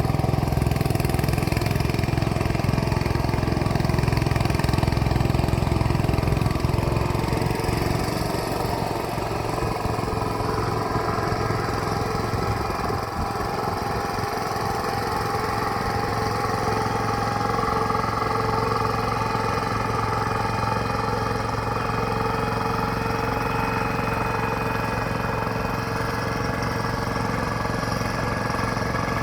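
Mini tractor's engine running steadily; about seven seconds in, its deep low drone eases off a little and it runs on slightly quieter.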